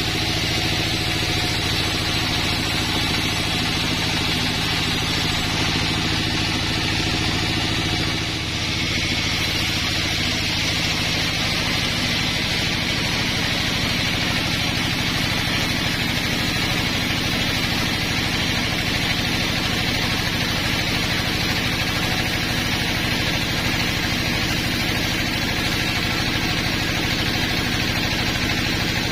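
Sawmill machinery running steadily: an engine-driven saw with a constant hum, easing off briefly about eight seconds in.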